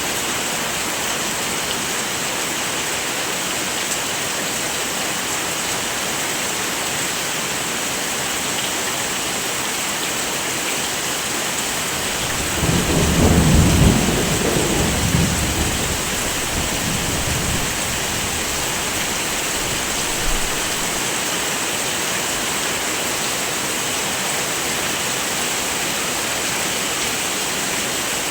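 Heavy rain falling steadily, with a roll of thunder about halfway through: a low rumble that swells up, peaks briefly and dies away over a few seconds.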